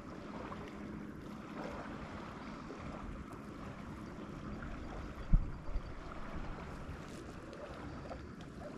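Steady background of lake water and light wind around a kayak. About five seconds in comes a low thump, followed by a fainter one.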